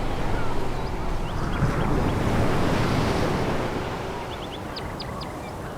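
Sea waves breaking on a pebble beach: a wave surges up to its loudest about halfway through, then draws back and quietens.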